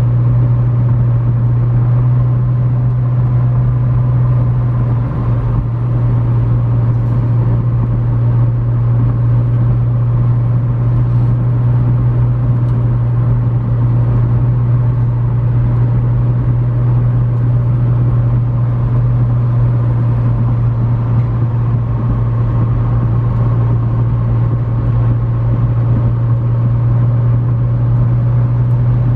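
McLaren 650S Spyder's 3.8-litre twin-turbo V8 running steadily at cruise, a constant low drone, with road and wind noise, heard from inside the moving car as it reaches highway speed.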